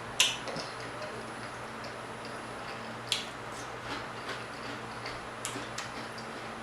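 Eating sounds: scattered sharp clicks and smacks from mouth and utensils. The loudest comes just after the start, and others about three and five and a half seconds in, over a steady low hum.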